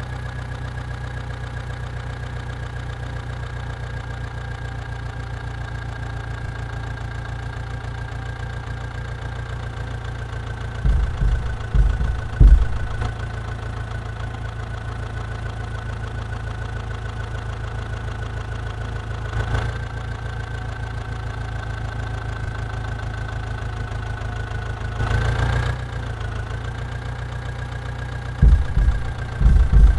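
Diesel engine running steadily at idle, with a thin high whine over it. Several short, loud low thumps come in two clusters, one about a third of the way in and one near the end.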